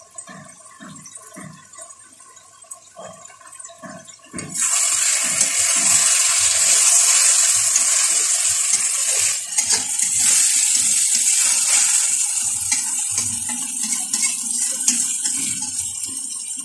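Chicken and masala sizzling in a wok as they are stirred with a metal spatula: soft spatula knocks at first, then a sudden loud, steady hiss starts about four seconds in and slowly fades toward the end.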